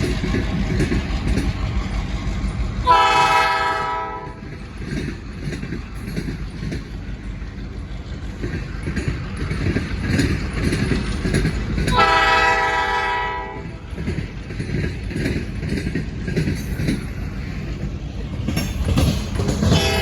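Diesel locomotive horn sounding two long blasts about nine seconds apart, over the steady low rumble of the locomotive's engine and its train rolling on the rails.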